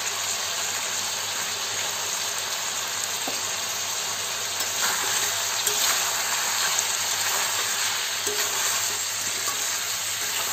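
Chicken and potato pieces frying in a metal kadai with a steady sizzle, stirred through the chili powder and masala with a spatula.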